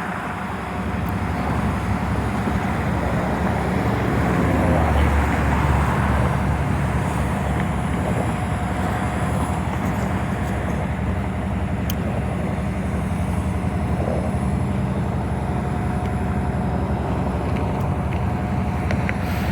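Diesel locomotives idling: a steady low engine drone with even humming tones, swelling slightly about five seconds in.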